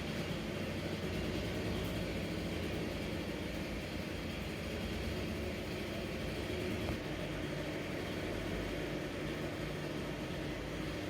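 Kymco Agility Renouvo 50cc four-stroke scooter engine running steadily with an odd noise, which the mechanic suspects is a crankshaft bearing or something rubbing. The fault was traced to a broken variator and a torn drive belt.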